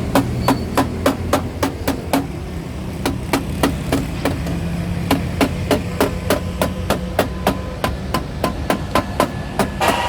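Hammer striking metal in a fast, steady rhythm, about three to four blows a second, over a low background hum.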